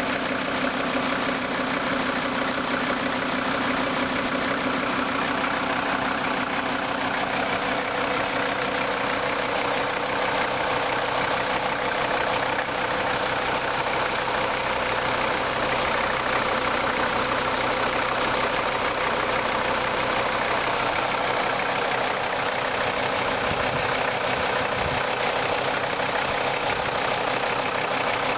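The five-cylinder diesel of a 1980 Mercedes-Benz 300D idling steadily after a cold start.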